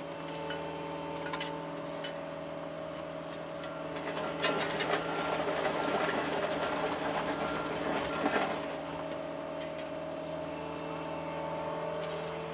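John Deere 75 excavator's diesel engine running with a steady hum. From about four seconds in, a louder, rougher clatter with knocks joins it as the machine works, and it dies back about eight and a half seconds in.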